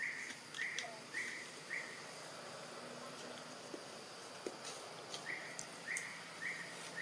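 A bird repeating a short call about twice a second: a run of four notes, a pause, and another run starting about five seconds in, over faint outdoor background noise.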